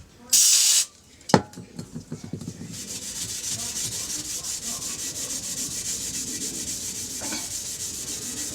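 A brief hiss of aerosol cleaner spray, a sharp click about a second and a half in, then steady fast rubbing as a metal part is scrubbed clean with a cloth.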